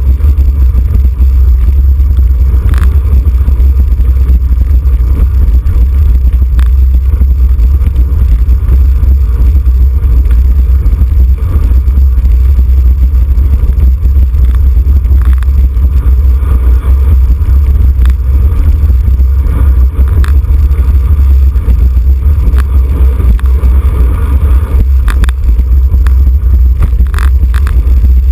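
Wind buffeting the microphone of a camera carried on a racing bicycle at speed: a loud, steady low rumble, with a few short clicks scattered through it.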